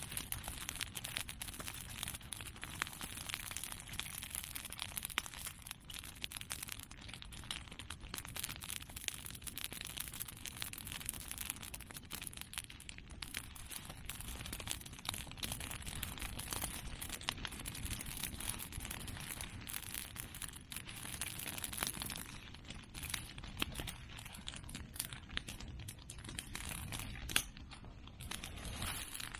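Open fire of cut medake bamboo and chestnut prunings crackling steadily with many small irregular pops, and one sharper, louder pop near the end.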